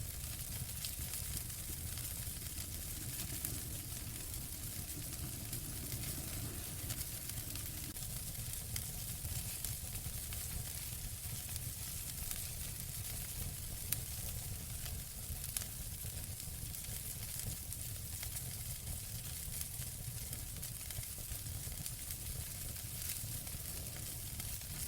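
Wood fire in a fireplace crackling and hissing steadily, with scattered small pops and one sharper pop about halfway through.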